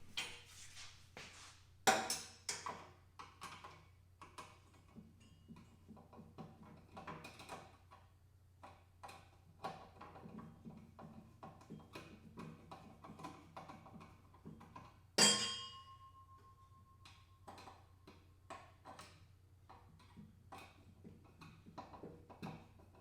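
Scattered light clicks, taps and clatter of hand work with a screwdriver and loose parts on a cart's plastic body, with a sharp knock about two seconds in and a louder knock about fifteen seconds in that leaves a short metallic ring. A faint steady low hum lies under it.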